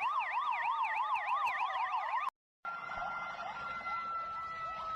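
Ambulance siren in a fast up-and-down wail, about four sweeps a second. It cuts off abruptly about two seconds in. After a brief gap a second siren pattern follows: a steady, slowly falling tone with quick rising chirps about four times a second.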